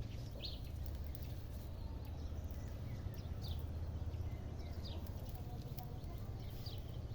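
A bird gives short, high, falling chirps every second or so over a steady low rumble.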